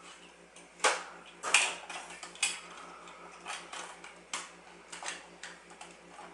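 Toy airplane parts clicking and clattering together as a small child assembles the toy, with irregular sharp clicks, the loudest about a second in.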